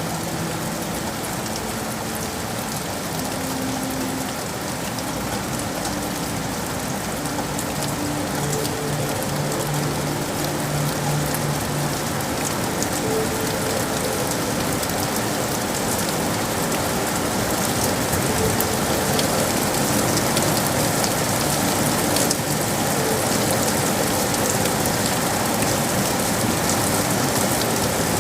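Steady rain falling on city surfaces, a dense even hiss with fine pattering drops, growing slightly louder toward the end.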